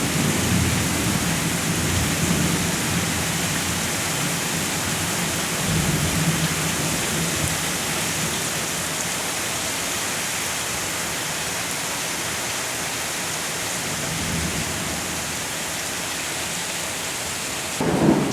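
Steady heavy rain hissing, with low rumbles of thunder swelling up now and then. The sound changes abruptly just before the end.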